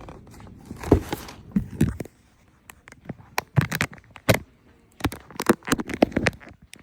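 Handling noise close to the microphone: irregular sharp knocks, scrapes and rustles in clusters, with short quiet gaps between.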